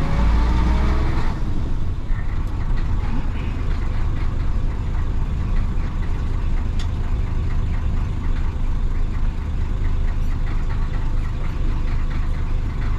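Diesel engine of a 1966 Isuzu BXD30 bonnet bus (DA640) revving up under load, dropping off about a second in as the driver changes gear, then running steadily as the bus drives along.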